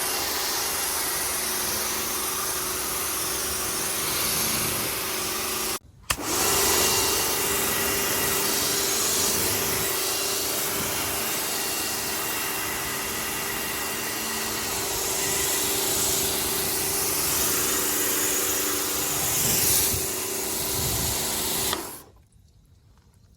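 Electric pressure washer running, a steady motor hum under a loud spray hiss. It cuts out briefly about six seconds in, starts again, and stops near the end.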